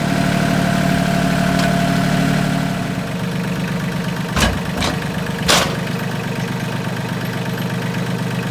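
Engine idling steadily, its note dropping about three seconds in, with three sharp metal clanks in the middle as the load of boxes is set down.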